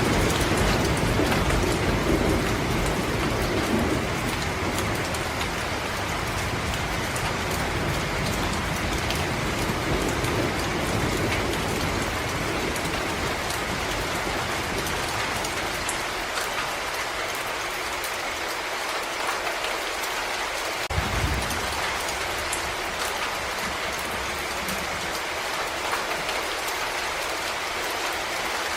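Steady rain falling on forest leaves, with fine drips ticking close by. A low rumble under the rain fades away over the first half, and a single brief low thump comes about two-thirds of the way through.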